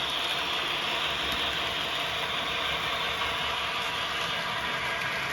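HO-scale model train running on the layout: a steady mechanical whirr from the locomotive's motor and gearing and its wheels on the track.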